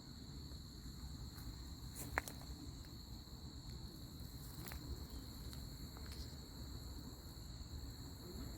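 Faint, steady, high-pitched chorus of crickets over a low outdoor rumble, with a couple of faint clicks.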